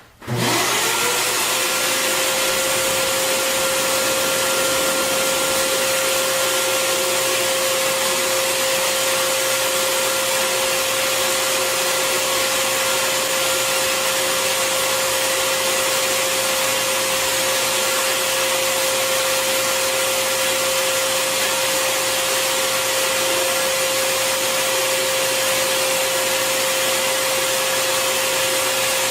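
Bissell Garage Pro 18P03 wet/dry vacuum's 12-amp motor switched on in blower mode. It spins up with a quick rising whine in under a second, then runs steadily, with a loud rush of air and a steady whine.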